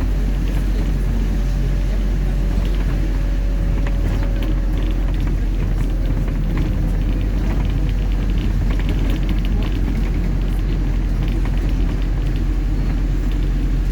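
City bus in motion, heard from inside: a steady low engine and road rumble with scattered light clicks and rattles, and a faint whine that slowly falls in pitch in the first half.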